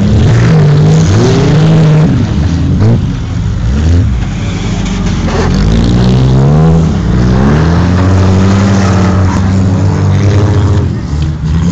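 Several demolition-derby cars' engines revving hard at once, their pitch repeatedly climbing and dropping as they overlap.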